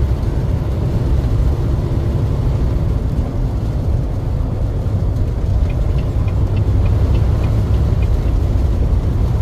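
Truck driving along, its engine and road noise making a steady, heavy low rumble.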